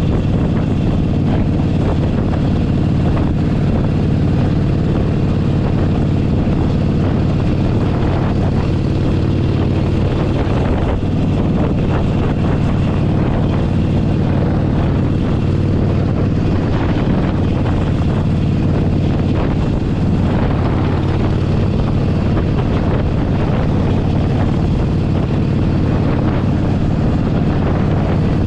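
Harley-Davidson Forty-Eight Sportster 1200's air-cooled V-twin engine running steadily at cruising speed, heard from the saddle, with wind rushing over the microphone.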